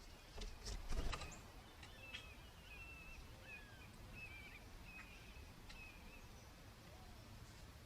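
A few sharp taps of a bird's beak pecking at seed in the first second and a half, the loudest about a second in, then faint high chirps of small birds over a steady low background hum.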